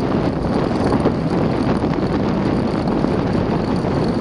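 A vehicle moving along a road, its engine and road noise steady, with wind rushing over the microphone.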